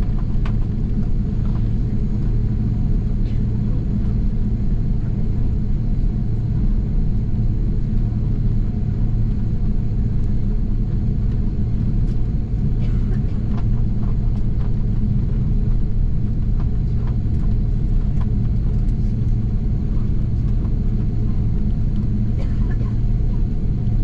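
Steady low rumble and engine hum inside the cabin of an Airbus A330-300 airliner taxiing before takeoff, holding even in pitch and level, with a few faint clicks.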